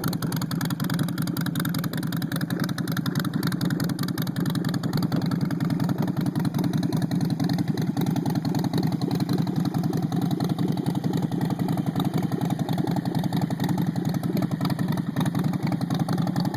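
Harley-Davidson Sportster 48's air-cooled 1200 cc V-twin idling steadily through a Twisted Choppers Hookah 2-into-1 header exhaust in raw, unwrapped steel.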